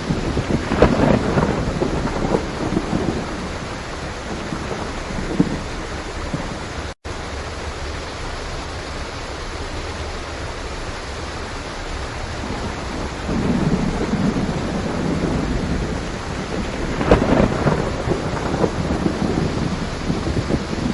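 Steady heavy rain with thunder rumbling: one roll near the start and a longer one in the second half, with a sharper crack about three quarters of the way in. The sound cuts out for an instant about a third of the way through.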